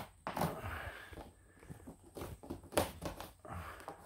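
Handling noises: scattered light knocks and rustling, with one sharper knock near three seconds in.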